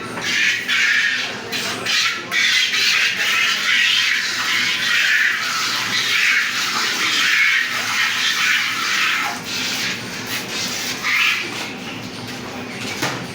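Milk squirting into a pail as a cow is milked by hand, a hissing spray that swells and fades with each pull on the teats.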